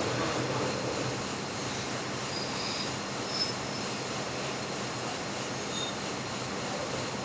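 Metal lathe running with a steady hum and cutting noise, with a few short high squeaks of the tool on the workpiece near the middle.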